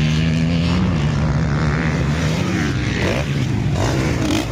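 Motocross bikes' engines running on the track: a steady engine drone, then rising and falling revs from about three seconds in as bikes pass.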